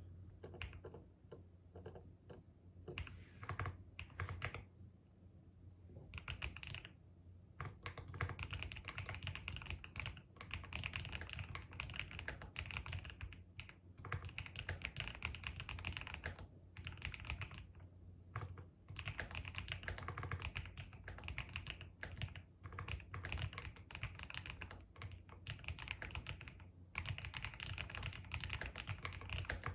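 Typing on a computer keyboard in bursts of rapid key clicks, with brief pauses between runs.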